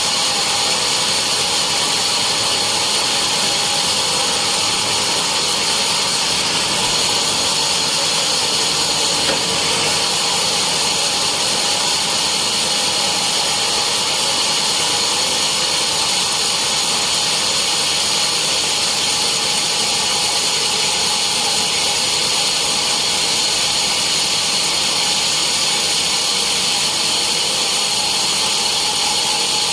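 Sawmill saw running steadily through a teak log, a loud even whine and hiss with a high steady tone and no change in pace.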